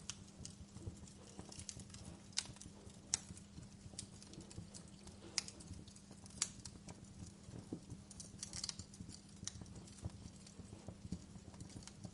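Fire crackling in a fireplace: irregular sharp crackles and pops, a handful of them louder, over a soft steady hiss.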